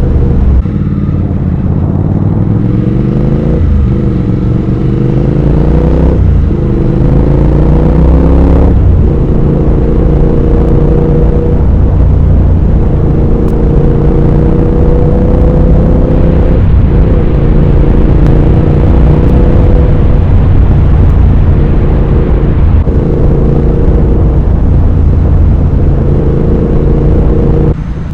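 Triumph Speed Twin 1200's parallel-twin engine and exhaust under way, pulling up through the gears: the pitch climbs and dips briefly at each upshift, four times in the first nine seconds or so. It then cruises at a steadier pitch with a few short lifts of the throttle, and eases off near the end.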